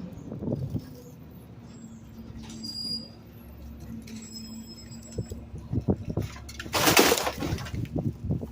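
Garbage truck hopper and packer: a steady low hum, then trash crackling and crunching from about five and a half seconds in, with a short, loud burst of hiss about seven seconds in.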